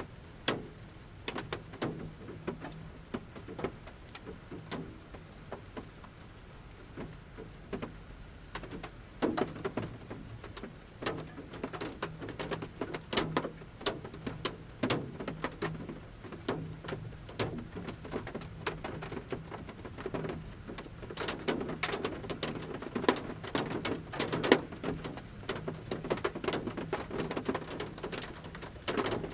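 Large raindrops falling from the forest canopy onto the roof of a camper van, heard from inside as irregular taps and pattering. The drops come in loose clusters, thicker around the middle and again in the last third.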